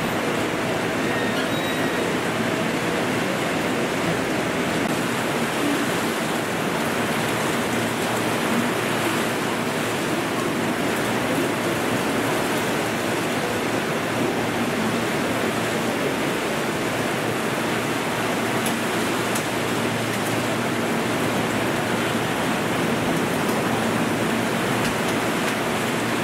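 Torrential cloudburst rain pouring steadily onto the station roof, platform and a standing train, a dense, unbroken hiss.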